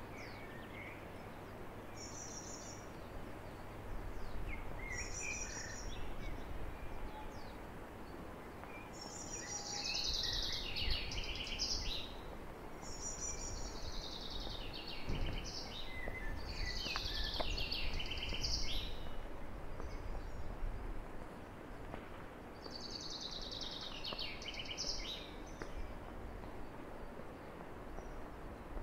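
A songbird singing short high phrases every few seconds, the longer ones falling in pitch, over a steady outdoor background rumble.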